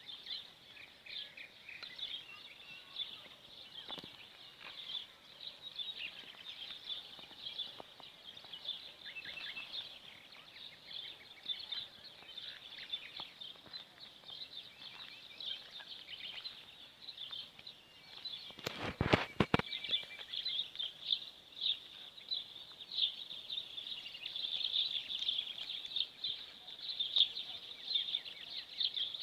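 A dense chorus of many small birds chirping continuously. About two-thirds of the way through, a few sharp knocks sound in quick succession.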